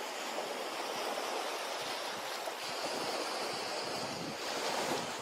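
Ocean waves washing onto a beach, a steady hiss of surf that swells slightly toward the end.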